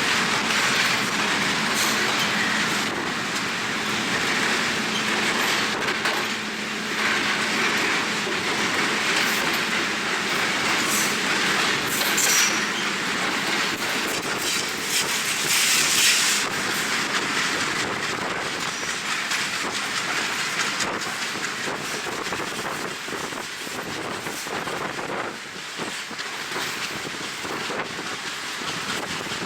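A passenger train running at speed, heard from on board: a steady rolling rumble with irregular clicks and clacks of the wheels over rail joints. Wind rushes over the microphone at the open window.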